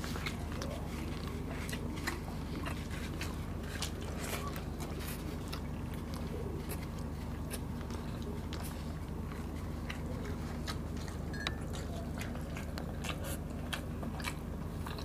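Close-miked eating sounds: chewing and biting on chicken adobo and rice, with many quick, sharp mouth clicks and smacks. A steady low hum runs underneath.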